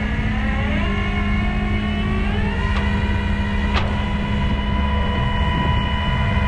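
Engines running under load as the stuck Kubota garden tractor is winched out: the engine pitch dips briefly, climbs about a second in and again around two and a half seconds, then holds steady over a constant low hum. A single sharp click about four seconds in.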